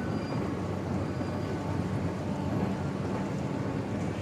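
Bangkok MRT metro train running between stations, a steady low rumble heard from inside the carriage.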